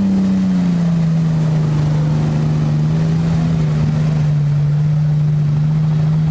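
Off-road vehicle engine running steadily under load on a muddy track, a low drone that eases down slightly in pitch in the first second and then holds steady.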